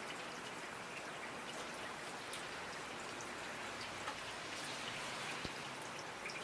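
Steady rainfall, a constant hiss with scattered individual drops ticking on a surface.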